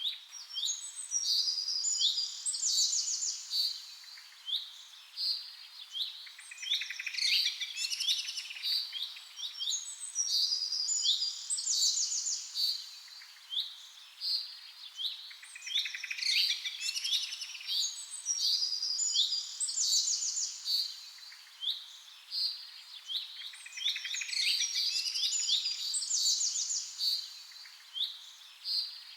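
Birds chirping and singing: a dense run of short high chirps with fast trills that come back every few seconds.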